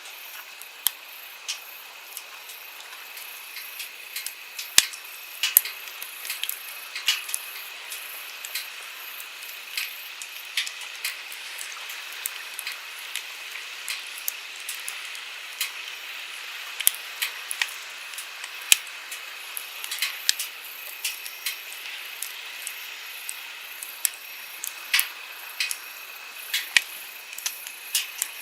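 Wood campfire crackling, with irregular sharp pops and snaps coming several times a second, over a steady hiss of stream water flowing.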